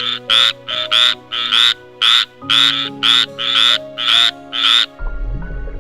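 An animal calling repeatedly: about a dozen short, rasping calls in five seconds, some in quick pairs, over steady background music notes. The calls stop about five seconds in.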